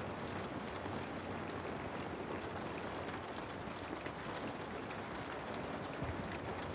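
Steady rain falling: an even wash of noise with scattered faint drop ticks.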